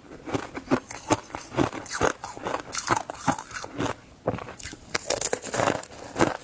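Shaved ice being bitten and chewed close to the microphone: irregular sharp crunches, several a second, easing briefly in the middle.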